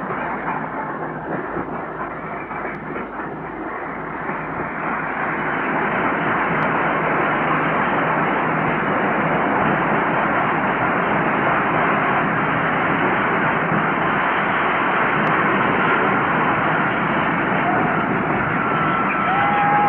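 LNER Class A3 steam locomotive Flying Scotsman on the move with its train: a steady, noisy rush of steam and running gear that grows louder about five seconds in.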